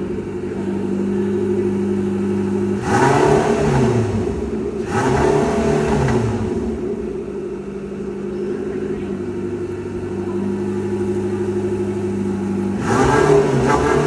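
Car engine idling with three throttle revs, each rising and falling back to idle: two in quick succession a few seconds in, and one more near the end.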